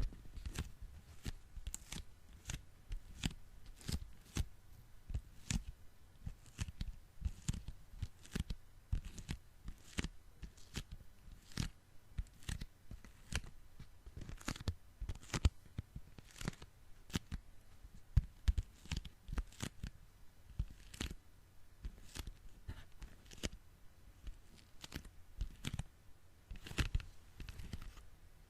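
Sticky hands pressed together and peeled apart, making a continuous run of quick, irregular sticky snaps and crackles, several each second.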